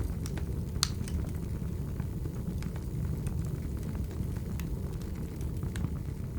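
Burning firewood crackling: scattered sharp pops over a steady low rumble of the fire, with one louder pop about a second in.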